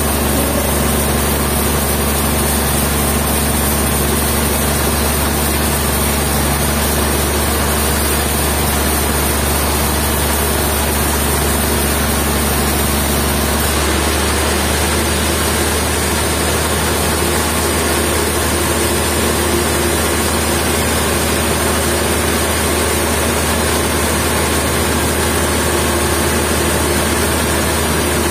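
Sawmill machinery running steadily: a heavy engine hum under a constant hiss, its low tone shifting slightly about fourteen seconds in.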